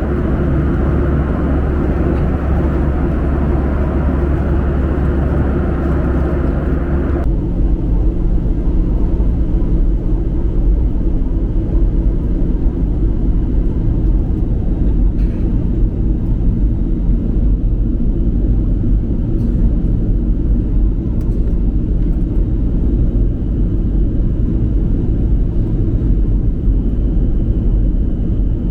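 Boeing 737-800 cabin noise: a steady, loud low rumble of engines and rushing air. About seven seconds in, the sound changes abruptly, with the higher hiss dropping away and a deeper rumble left.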